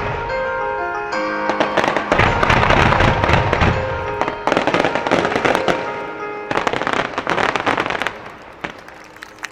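Aerial fireworks bursting: deep booms and a dense crackle of many small bursts, over pop music synchronized to the show. The bursts thin out and fade near the end.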